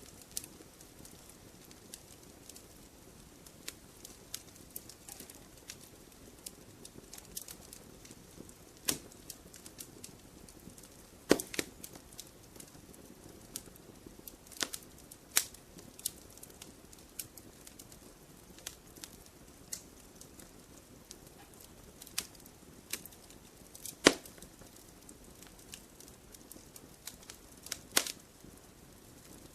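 Wood fire crackling in a fireplace: irregular sharp pops and snaps over a soft steady hiss, with the loudest pops about 11 and 24 seconds in.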